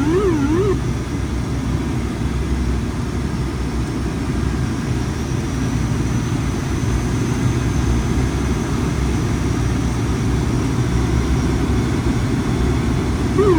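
ATR 72-600's turboprop engines and propellers running steadily on approach, mixed with rushing airflow noise and a low hum. A warbling electronic tone, rising and falling several times a second, sounds during the first second and again right at the end.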